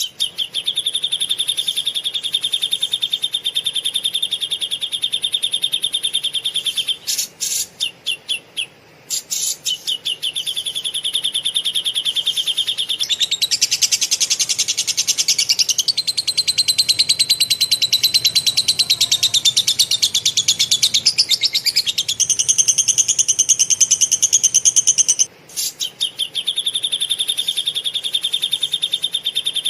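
Caged songbird singing long, very rapid chattering trills, nearly without pause. The trill breaks into short stuttering bursts twice, and rises to a higher, busier run in the middle.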